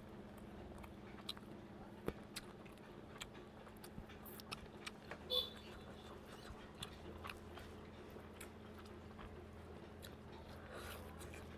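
Close-miked eating: a person chewing mouthfuls of rice and chicken curry, with soft clicks and squelches as fingers mix the food on a steel plate. One louder, short sharp sound about five seconds in, over a faint steady hum.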